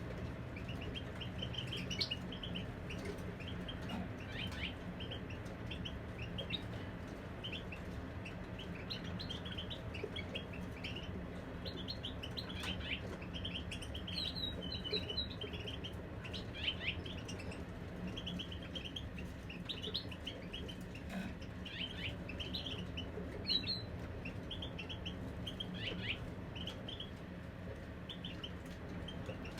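Caged European goldfinches singing: rapid runs of short twittering chirps and trills that keep going, with a steady low hum underneath.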